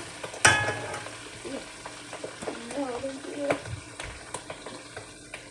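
Food frying in hot oil in a pan: a steady sizzle with sharp pops of spattering oil every second or so.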